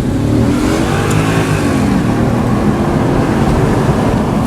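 2005 Audi S4's 4.2-litre V8 on its stock exhaust, heard from inside the cabin with all four windows down, accelerating hard, its note rising and dipping in pitch.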